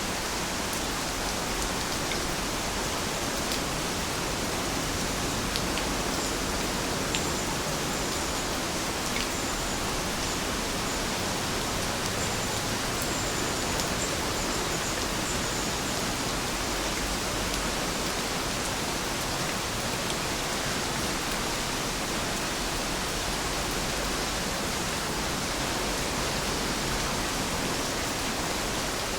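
Steady rain falling as an even hiss, with a few single drops ticking now and then.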